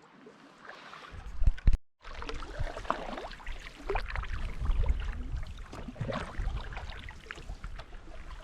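Canoe paddling: a paddle dipping and splashing in the lake water with irregular strokes, over a low rumble. There are a couple of sharp knocks about a second and a half in.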